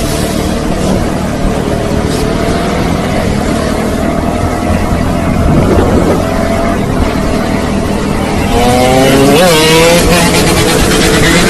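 Motor vehicle engines running over a steady noisy rush. About eight and a half seconds in, an engine revs up, its pitch rising and wavering, and the rush grows louder.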